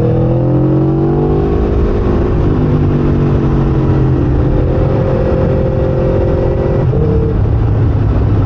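Motorcycle engine running while riding, with a steady rush of wind noise underneath. The engine note climbs a little, drops about two seconds in, then holds steady.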